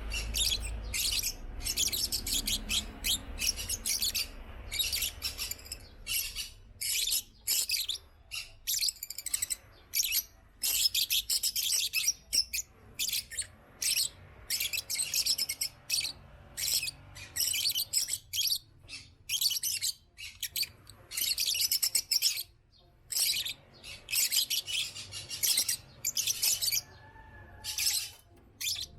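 African lovebirds chirping and chattering in rapid, high-pitched bursts, nearly continuous with brief pauses.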